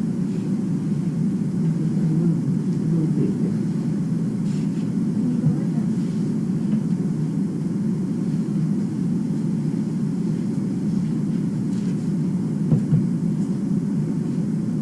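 Steady low rumbling background noise, with a few faint taps.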